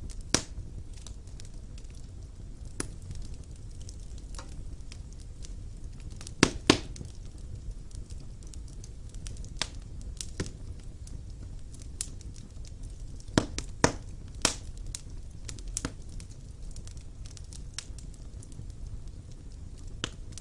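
Wood fire burning in a stone fireplace: a steady low rumble with irregular sharp pops and crackles, the loudest in pairs about six and a half and fourteen seconds in.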